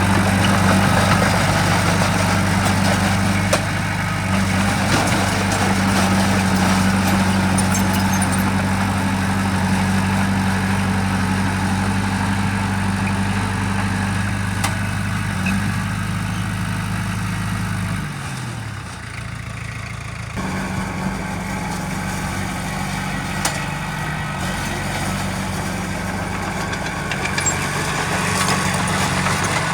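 Heavy diesel engine of earthmoving machinery running steadily. About two-thirds of the way through, its pitch drops and it goes quieter for a couple of seconds, then it picks back up. Scattered clicks and knocks can be heard over it.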